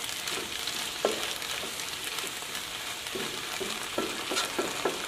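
Stir-fried white cabbage and red chilies sizzling in a pan after a splash of water, with a spatula scraping and clicking against the pan as it is stirred now and then.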